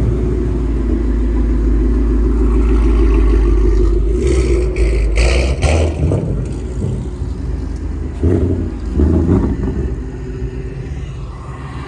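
A car's exhaust rumbling loudly, with a cluster of sharp pops about four to six seconds in and two short revs around eight and nine seconds, after which it settles to a quieter rumble.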